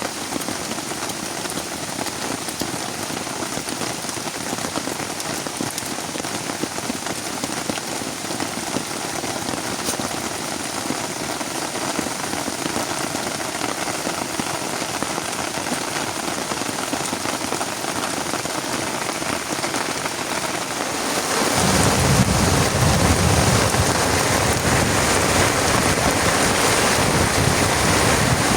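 Heavy rain falling steadily. About three-quarters of the way through, the sound gets louder and a deep low rumble joins and stays.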